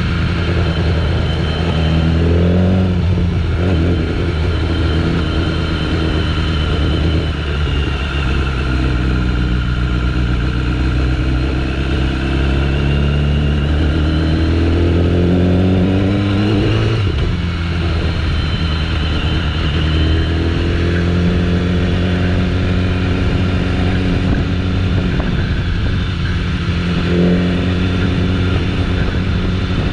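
BMW S1000RR's inline-four engine running on the road, its pitch rising as it accelerates and falling back several times. A long climb ends in a sudden drop about seventeen seconds in.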